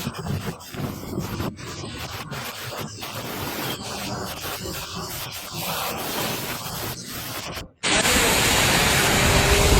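Storm wind rushing over the microphone in uneven gusts. It cuts out suddenly near the end, then comes back louder and steadier, with a heavy low rumble.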